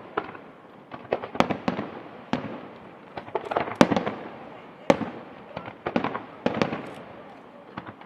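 Aerial fireworks display: clusters of sharp shell bursts and cracks, with a new volley about every second, each trailing off in a brief crackle.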